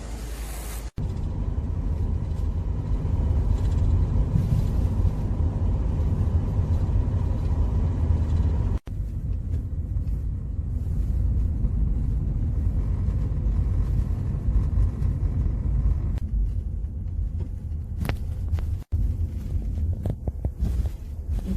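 Steady low rumble of a car on the move, engine and road noise, broken by three brief sudden gaps.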